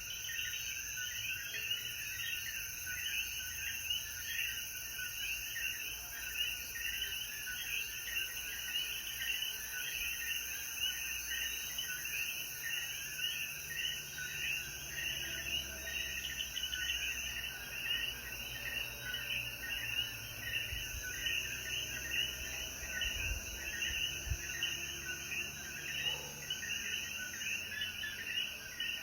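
A dense chorus of common coquí frogs calling after rain: many overlapping short chirping calls, several a second, over a steady high buzz of insects.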